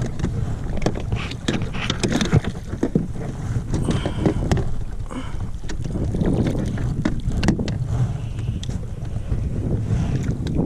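Wind buffeting the microphone, with scattered sharp knocks and clatter.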